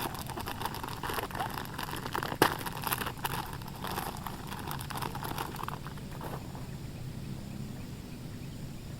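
A rapid run of small clicks and rustles with one sharp knock about two and a half seconds in, stopping a little after six seconds, over a faint steady low background.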